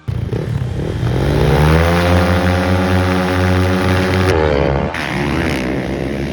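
Motocross bike engine revving up, climbing in pitch and holding high revs for a couple of seconds, then dropping off with a wavering note about four and a half seconds in.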